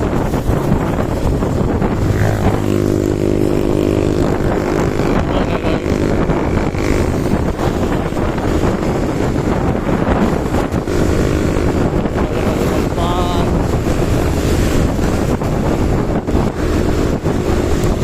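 Loud, steady wind noise buffeting the microphone in heavy rain, with a brief pitched hum about two to four seconds in.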